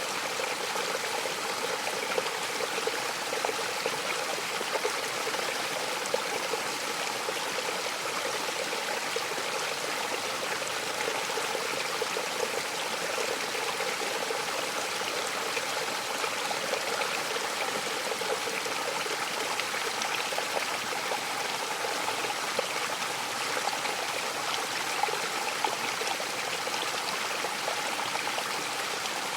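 Waterfall rushing steadily, a constant even wash of falling water with no change.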